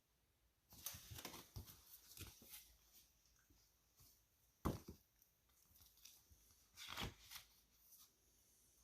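Paper picture-book pages rustling and being handled, with scattered small clicks and two sharper taps, about halfway through and again about two seconds later.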